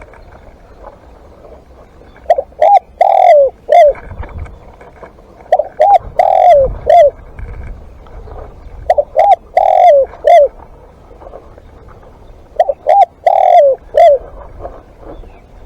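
Spotted dove cooing: four phrases, one about every three and a half seconds. Each phrase is two quick notes, a longer falling coo and a short final note.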